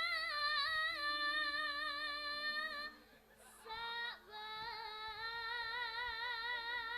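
A young girl sinden sings a slow Javanese vocal line in long, high, wavering held notes. The line comes in two phrases, with a short breath a little before the middle. Faint steady low instrumental notes sound underneath.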